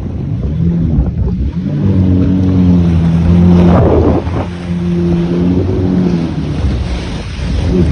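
Jet ski engine running at low to moderate throttle, picking up speed about a second and a half in and then holding steady, with water and wind noise on the microphone. A brief loud rush of noise comes about four seconds in.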